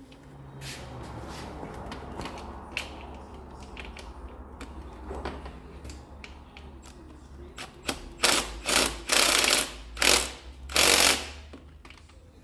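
Ratchet running bolts into a gearbox mount bracket, in about five short bursts of rapid clatter near the end, over a low steady hum.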